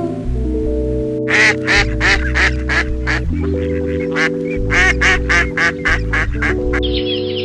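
Mallard ducks quacking in a quick run of about twenty short calls, over a steady background music track. Near the end, high chick peeping takes over.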